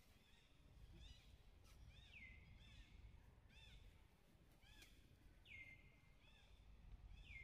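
Faint bird calls: short chirps repeating every second or two, and three longer whistles that drop in pitch and then hold steady, over a low background hiss.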